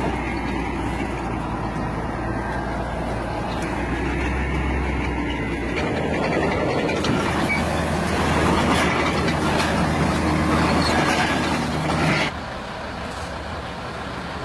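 Heavy truck engine running steadily, getting louder and noisier over the middle of the stretch, then cutting off abruptly about twelve seconds in to a quieter steady engine sound.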